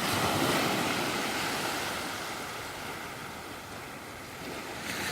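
Waterfall's falling water rushing as an even hiss, loudest in the first second or so and easing a little past the middle.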